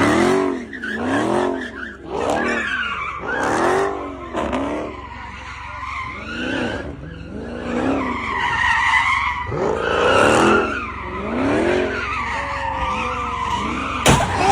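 A car engine revving up and down over and over while its tyres skid and squeal. Near the end there is a sudden loud crack.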